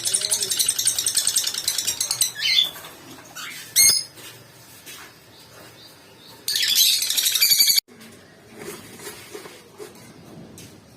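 Lovebirds chattering in loud, fast, high-pitched bursts for the first couple of seconds, with a sharp click near the middle. The chatter comes again later and cuts off suddenly.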